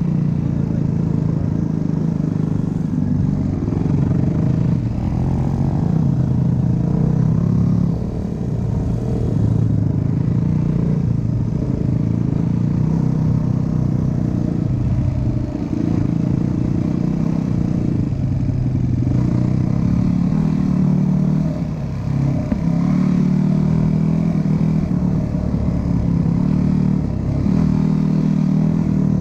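Dirt bike engine running and revving, its pitch rising and falling with brief dips as the throttle is opened and closed.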